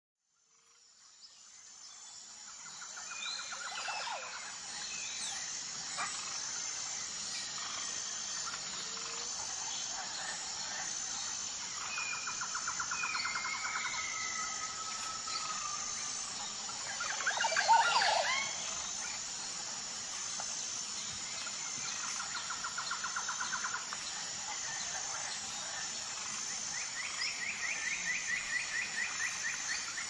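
Birds calling and trilling: several short rapid trills, a cluster of sweeping calls a little past halfway that is the loudest part, and a high chirp repeating about once a second behind them. The sound fades in over the first few seconds.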